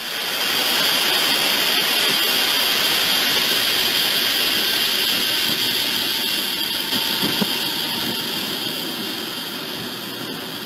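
Steady rushing noise of a moving train heard from inside the locomotive cab, mostly a hiss with no clear engine note, easing off slightly toward the end.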